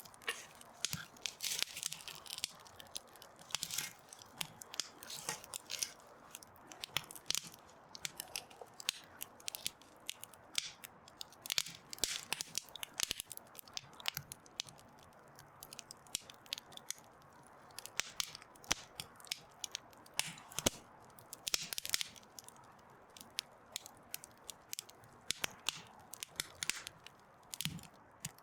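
Wood campfire crackling, with irregular sharp pops and snaps and an occasional brief hissing flurry.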